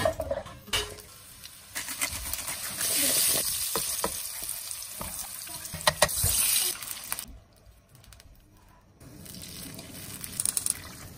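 Carrot chunks frying in hot oil in a nonstick pan: a few sharp taps as the pieces go in, then a steady sizzle. After a brief dip near two-thirds in, the sound returns lower and busier as the carrots bubble in a pool of liquid.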